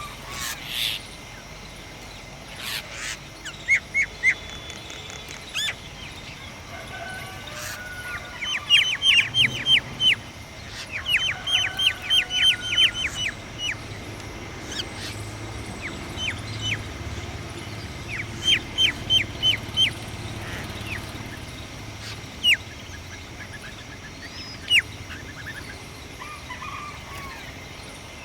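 Small birds chirping: quick runs of short, sharp downward-slurred chirps, several a second, with single chirps in between.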